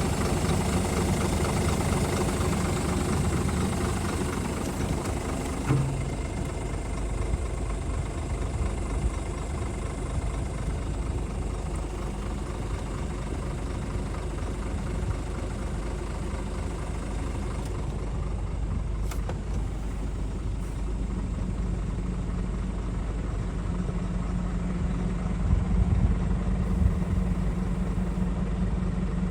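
Scania R450 truck's 13-litre straight-six diesel engine idling steadily.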